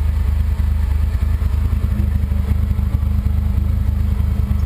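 Jeep's four-cylinder engine running steadily at a low, even speed, heard from inside its open roll-cage cab.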